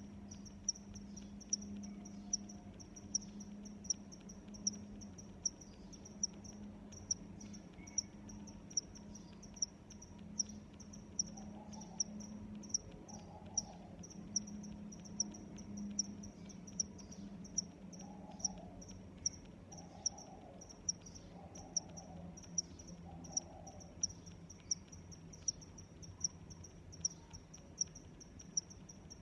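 A cricket chirping in short, high, evenly spaced chirps, a little more than one a second, over a faint low steady hum.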